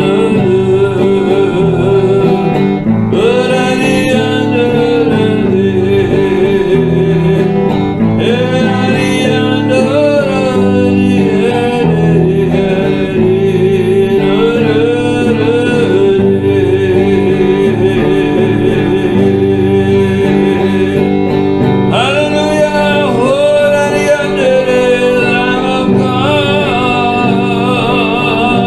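Worship song: a singing voice over instrumental accompaniment, continuous and unbroken.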